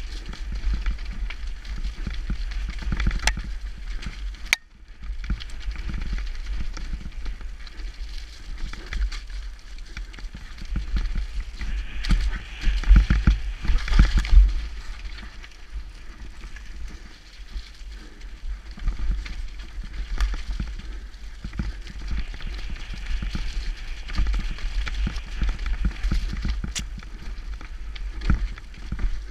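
Downhill mountain bike descending a rough dirt trail: tyres running over dirt and rocks and the frame and drivetrain rattling, with sharp knocks now and then. Heavy wind rumble on the action-camera microphone. The run gets loudest and roughest midway, around twelve to fifteen seconds in.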